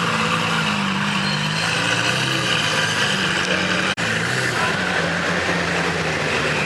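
Car engine running steadily at a low idle over a busy background hum, with a sudden brief cut in the sound about four seconds in.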